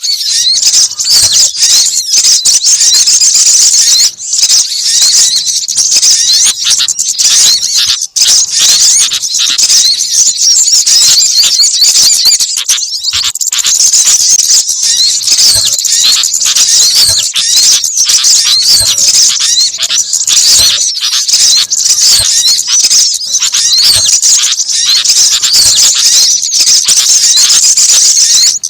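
A dense, continuous chorus of small songbirds chirping and twittering in rapid, high-pitched notes: a mixed bird-lure recording of several small species, used to call wild birds in.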